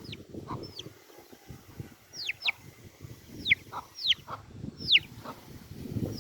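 Baby chick peeping: a series of short, high cheeps that each fall steeply in pitch, about eight of them, clustered in twos and threes, over low rustling.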